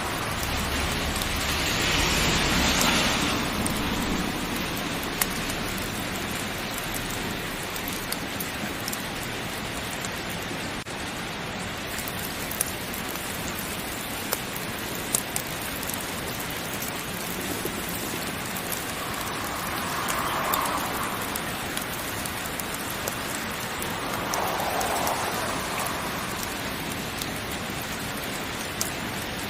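Heavy rain falling steadily, swelling in intensity a few times. A few sharp pops from a crackling wood fire stand out over it.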